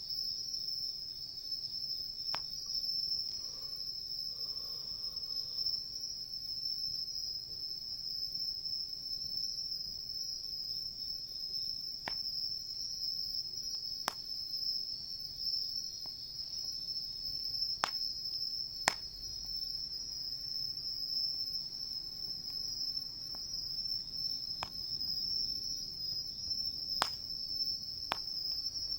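Crickets chirping in a steady, high-pitched chorus. Now and then the campfire gives a sharp pop or crackle, about nine times in all.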